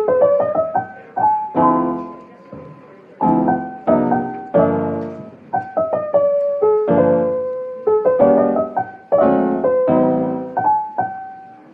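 Piano music: chords and a melody of struck notes, each note fading after it is played.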